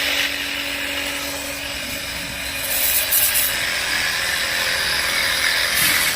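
Chemical sprayer hissing against a steady noisy background, with two louder bursts of spray, one in the middle and one near the end.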